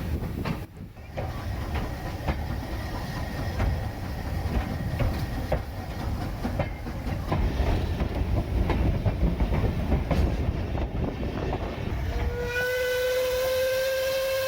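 A steam train running along the track, with rumbling and a busy clatter of wheels over the rail joints. About twelve seconds in, the locomotive's steam whistle sounds one long blast, rising slightly in pitch, held for about two seconds.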